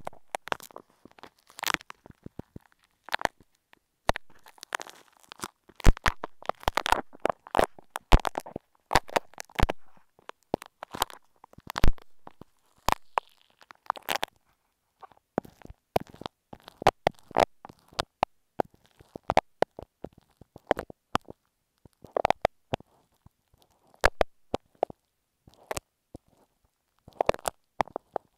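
Irregular sharp clicks, crackles and sticky squishes made right on an earphone microphone as small bead-like imitation apple snail eggs are picked off it. Partway through it changes to glue-stick paste being worked on the mic.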